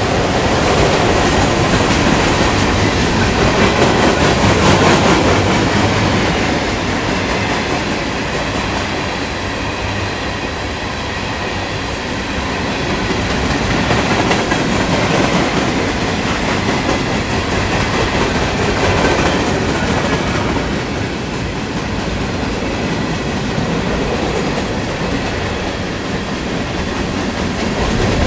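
Norfolk Southern freight train's cars rolling past, a steady loud rumble of steel wheels on rail that swells and eases in waves as the cars go by.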